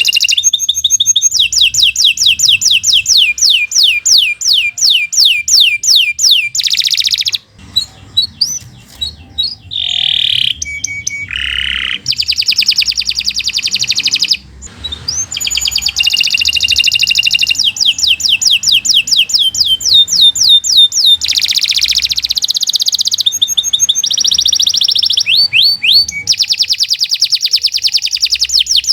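Domestic canary singing a long, fast song of rapid trills: high notes repeated several times a second, with only brief breaks about seven and fourteen seconds in.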